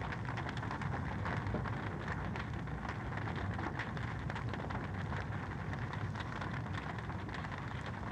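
Fireplace fire crackling: a steady hiss with many small, quick pops and snaps throughout.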